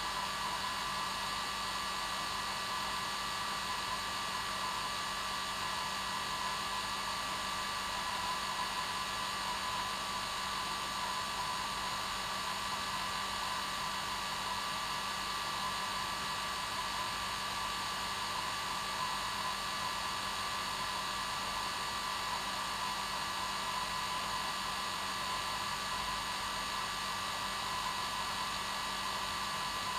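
Hair dryer running steadily, a constant hiss with a motor hum.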